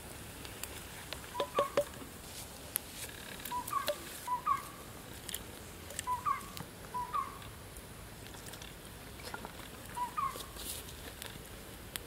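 A bird giving short chirping calls that each rise at the end, mostly in pairs, repeated at intervals, over scattered light ticks and crackles.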